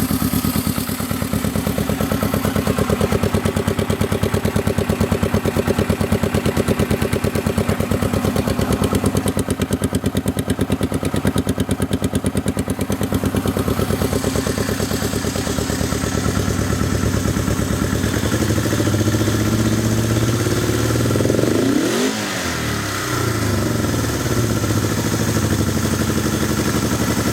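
1971 Honda SL350's air-cooled parallel-twin four-stroke engine running steadily on its first run after a rebuild, warmed up and running well. Its speed shifts in the last third, rising and falling near the end.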